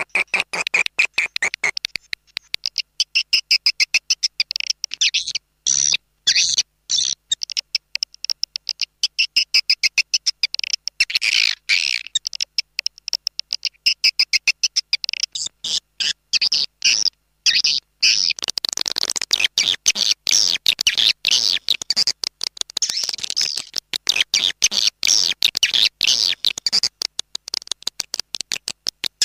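Swiftlet call recording: a dense, high-pitched twittering chatter of swiftlets, chopped into rapid short chirps with brief gaps, the lure sound played to attract swiftlets to a nesting house.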